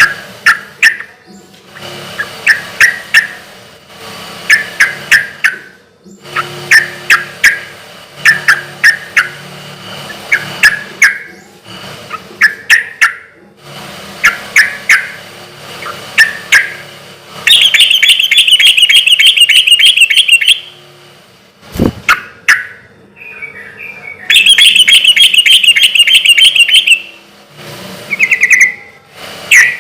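Yellow-vented bulbul (trucukan) singing loudly: short bubbly phrases of a few notes repeated about every two seconds, broken twice by longer, higher, very fast chattering runs lasting about three seconds each. A single sharp click comes in just after the first of these runs.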